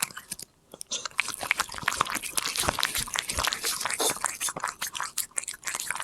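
Korean shorthair cat chewing a treat, with rapid, crisp crunching and a brief pause about half a second in.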